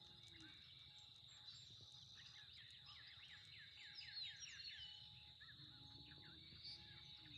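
Faint birdsong over a steady high insect drone: a bird sings a quick run of about eight rapid chirps around three seconds in, with other scattered calls. A faint short note repeats about once a second.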